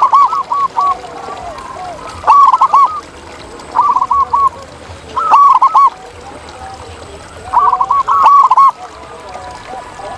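Zebra doves (perkutut) cooing: about five loud bursts of quick, bubbling coo notes, one every second and a half or so. The fourth burst is longer. Fainter cooing from other doves runs underneath.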